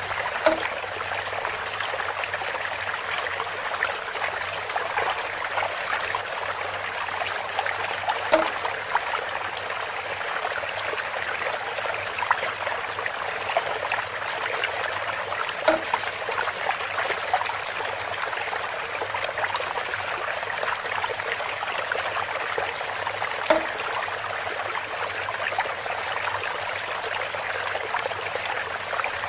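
Water trickling steadily from a bamboo spout, with a short pitched note repeating about every eight seconds.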